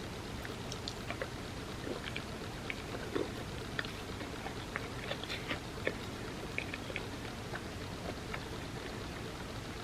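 Close-up eating sounds of soft chocolate cake soaked in almond milk: chewing with many small, scattered wet mouth clicks and squelches over a steady low background hum.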